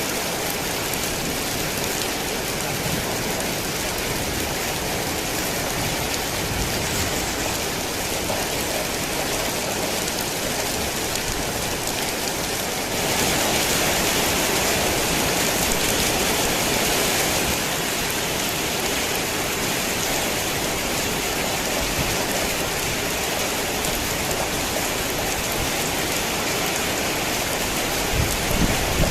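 Heavy rain falling steadily, an even hiss across all pitches that swells louder for a few seconds midway. A low rumble begins right at the end.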